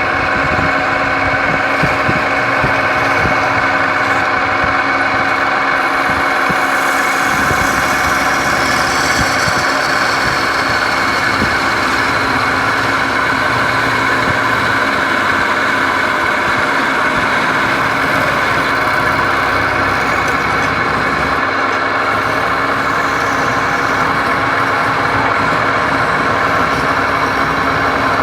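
Woodturning lathe running steadily, its motor hum holding a constant pitch.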